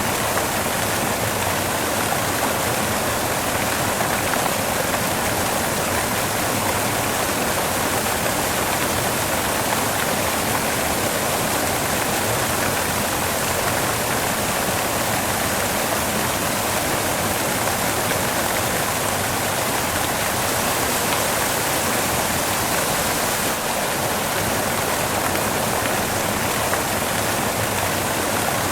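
Steady white noise: an even, unchanging hiss spread evenly from the low end up to the highest pitches, with no separate events.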